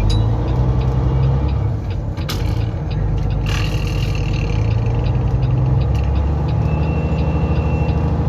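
Semi truck's diesel engine running at low speed, heard from inside the cab, with a steady low drone that takes on a quick, even pulse near the end. Two short hissing noises come through at about two and three and a half seconds in.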